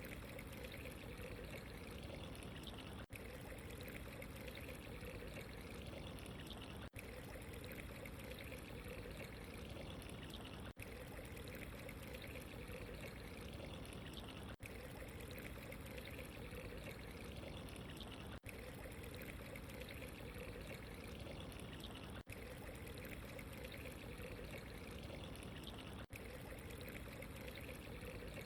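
Steady running, trickling water, even and unbroken except for very brief dips about every four seconds.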